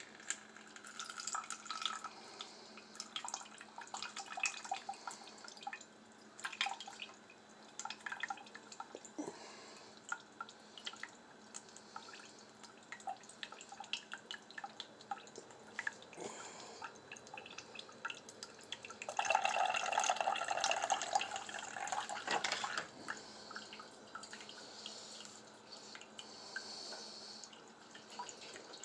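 Scattered clicks and knocks of a single-serve coffee maker being handled and set up. About two-thirds of the way through comes a louder few seconds of running, splashing water.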